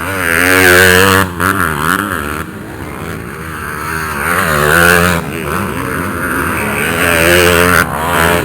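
Dirt bike engines revving hard, the pitch repeatedly climbing and dropping as the bikes accelerate and shift or back off; it swells loudest about a second in, again midway and near the end.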